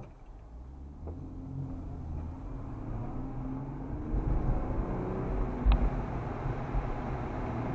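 Car engine and road noise building steadily as the vehicle accelerates, the engine's pitch slowly rising, with one short knock about two-thirds of the way through.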